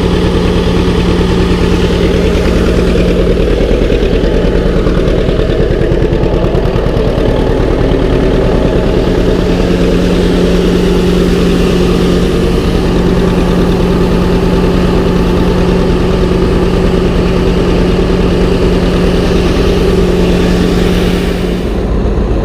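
Tractor engine running steadily, driving a feed grinder while grinding feed. The level dips slightly near the end.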